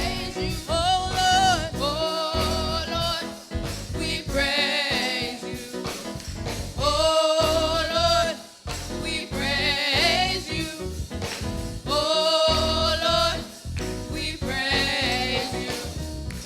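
Live gospel music: a singer holding long, wavering phrases over band accompaniment.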